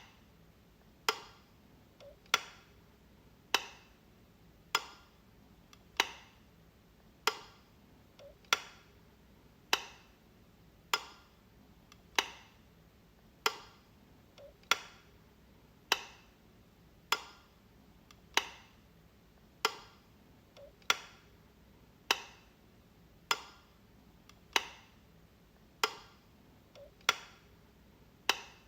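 Light switch being flicked: one sharp click about every 1.2 seconds, each with a short ringing tail, and now and then a fainter click just before the main one.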